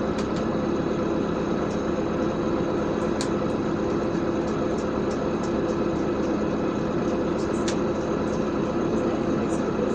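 A LiAZ 5292.65 city bus under way, heard from inside: a steady engine and road hum with a few light clicks and rattles, the loudest about three seconds in and near eight seconds.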